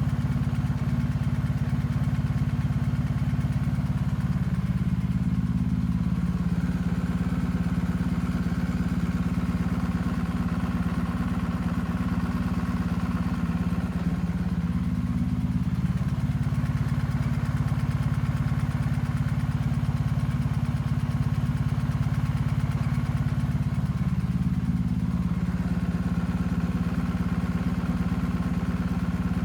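BMW R1250GS boxer-twin engine idling steadily, with a ticking noise from the left cylinder.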